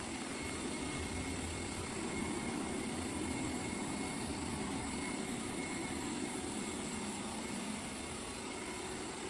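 Xiaomi S40 robot vacuum running, a steady motor hum and whir with no breaks.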